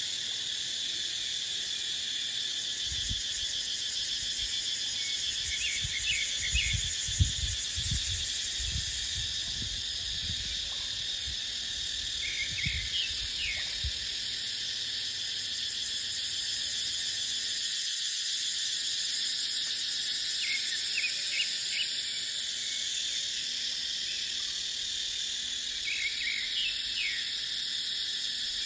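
Cicadas droning in a dense, high, steady chorus, with short chirped calls every few seconds. Wind gusts buffet the microphone in low rumbles from about three seconds in until about fourteen seconds.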